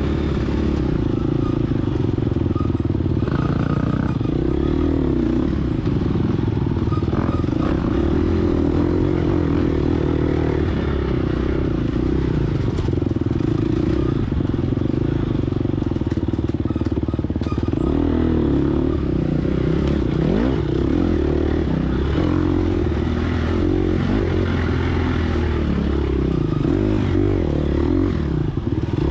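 Gas Gas EX250F single-cylinder four-stroke dirt bike engine running hard under throttle. Its pitch rises and falls as the throttle is worked, most clearly about two-thirds of the way in.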